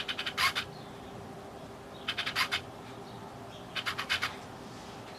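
Three short bursts of rapid, scratchy clicking, each about half a second long and repeating roughly every second and a half, over a faint steady hum.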